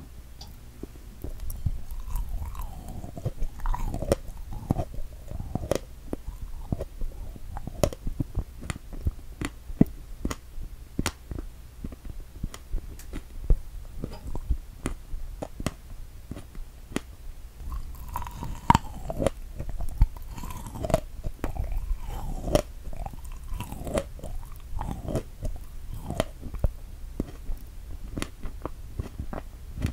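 Close-miked chewing of a strawberry topped with whipped cream: many small, irregular mouth clicks and smacks.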